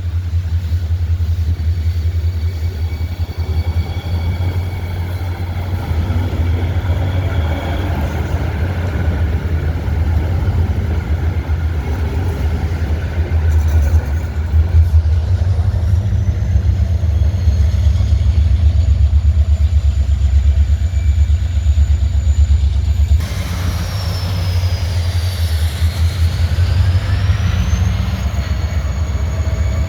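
A train running by with a heavy, steady low rumble and thin high whining tones. About two-thirds of the way in, a whine glides down and then back up.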